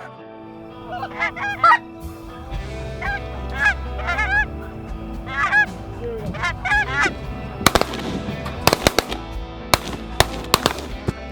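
Geese honking repeatedly, followed about two-thirds of the way in by a rapid volley of shotgun shots, roughly a dozen in a few seconds from several guns, with faint background music underneath.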